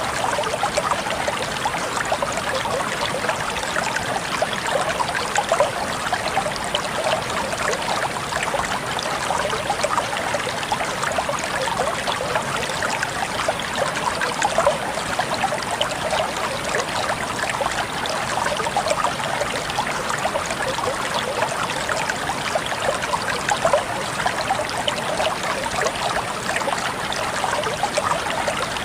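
Water flowing and trickling steadily, a stream running over stones with constant small splashes.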